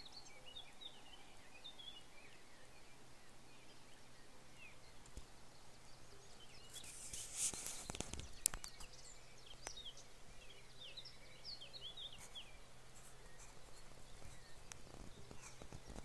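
Faint twittering calls of small birds, in a few short bursts, with a brief rustle and a few clicks of twigs and handling about seven to eight seconds in.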